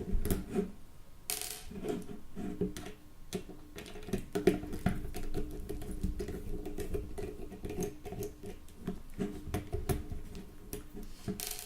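Precision screwdriver with a T6 Torx bit working the small screws out of a Nokia 3310's plastic frame: many small, irregular clicks and scrapes of the bit and screws against plastic.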